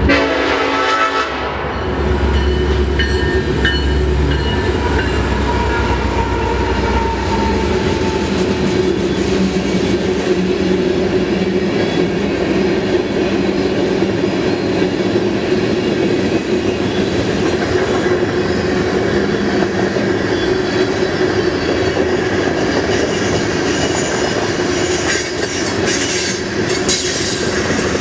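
Horn of a Kansas City Southern EMD SD70ACe diesel locomotive sounding as the train approaches, cutting off about a second and a half in. The leading locomotives' diesel engines then rumble past, followed by a long string of tank cars rolling by with steady wheel noise and clickety-clack, and a few sharp metallic rattles near the end.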